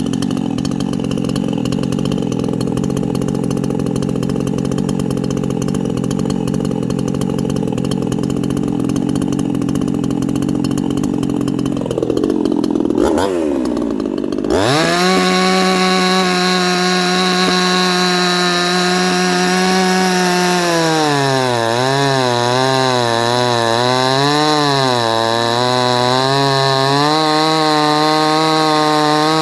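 A 58cc Chinese two-stroke chainsaw running, its squish recently raised. Around 12 to 14 seconds in the pitch rises and falls. It then holds a high steady pitch, and from about two-thirds of the way through the pitch dips and recovers over and over, as under load in a cut.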